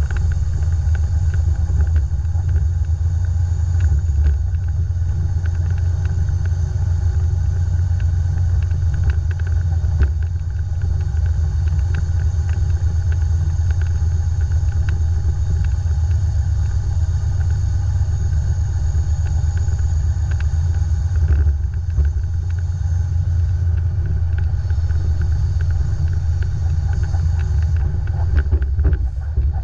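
Dump truck's diesel engine running, a steady deep rumble.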